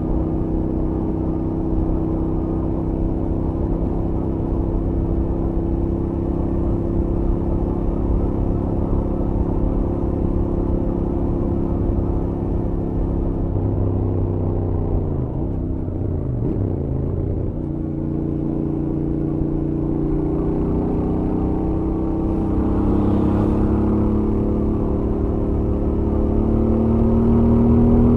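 Royal Enfield Interceptor 650's parallel-twin engine through its stock exhaust, running at highway speed. The revs hold steady, drop and swing up and down for a few seconds about halfway through, then climb steadily toward the end.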